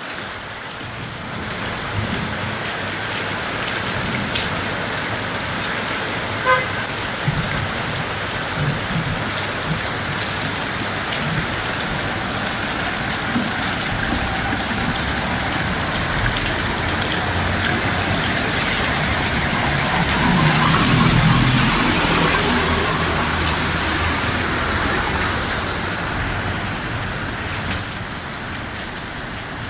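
Heavy rain falling steadily. Partway through, a low rumble swells and then fades under the rain.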